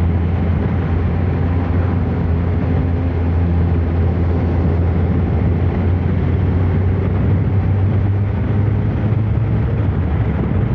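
Kawasaki ZR-7 motorcycle's air-cooled inline-four engine running steadily under way, recorded on the moving bike, with a steady rush of riding noise over the engine hum.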